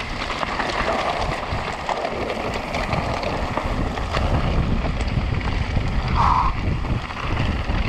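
Wind rushing over a helmet-mounted camera's microphone while a mountain bike rides down a rough trail, with a steady rumble and rattle that get heavier about halfway through.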